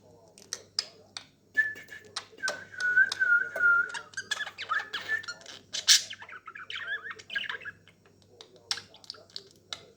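Budgerigar chatter: rapid clicks and short chirps, with a wavering whistled warble from about a second and a half in to about four seconds, followed by a busy run of louder chirps.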